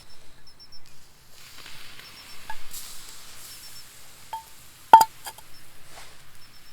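A soft hiss with a few light clinks, the loudest a single ringing clink about five seconds in, like metal or glass being knocked; faint short high chirps repeat in the background.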